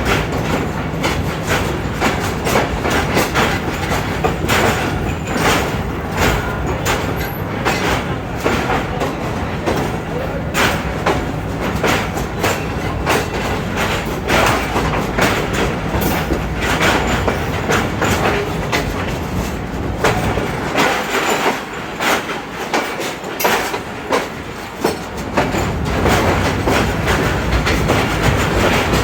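Train wheels clattering over rail joints: a dense run of clicks over a continuous low rumble, which eases off for a few seconds about three-quarters of the way through.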